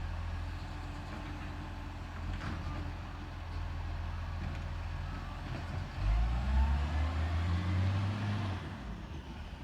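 Garbage truck's diesel engine running steadily, then revving up about six seconds in and holding higher for a couple of seconds before dropping back.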